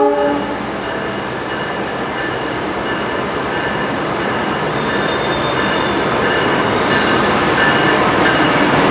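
A train horn sounds and cuts off just after the start, then a train runs by with steady wheel-on-rail noise that slowly grows louder, with faint thin squealing tones from the wheels.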